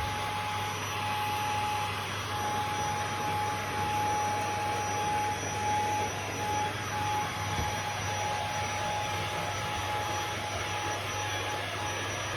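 Shark HZ500UK corded stick vacuum running steadily as a handheld, its motor giving a continuous high whine over a rush of air.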